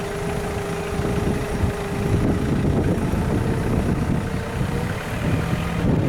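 Tractor engine running steadily, with a thin steady whine over it that fades about two seconds in and comes back for a while in the middle.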